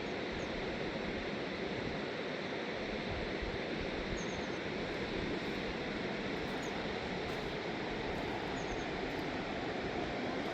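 Fast river water rushing in a steady, unbroken roar of whitewater, with a few faint, short high chirps over it.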